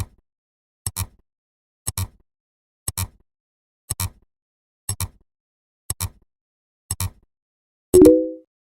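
A short, sharp double click once a second, ticking off one number per count. About eight seconds in, a brief pitched tone sounds with the click and fades within half a second, in the pattern of a tone every tenth count.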